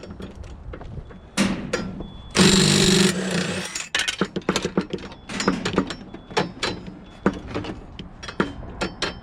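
Scrap metal being taken apart: repeated metal knocks and clanks, with a power tool running for about a second and a half a little over two seconds in.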